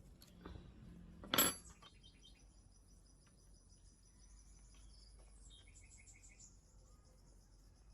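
A single sharp clink about a second and a half in, after a faint click, with a high ringing that fades over several seconds. Faint bird chirps in the background.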